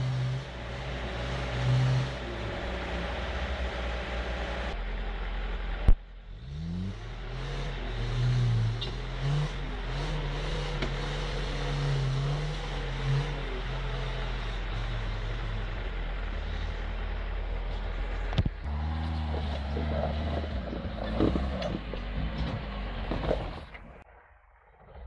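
Lada Niva engine revving hard under load as the 4x4 climbs a steep rocky gully, its pitch rising and falling. There is a single sharp bang about six seconds in, and the engine sound drops away near the end.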